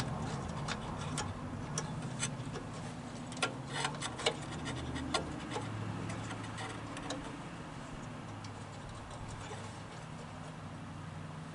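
Small metal parts and a spring clicking and tapping at uneven intervals as a mower part is fitted back together by hand, the clicks thinning out in the second half, over a faint steady low hum.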